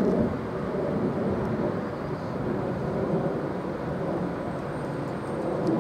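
Class 390 Pendolino electric train running slowly into a station platform as it slows to stop, giving a steady low rumble.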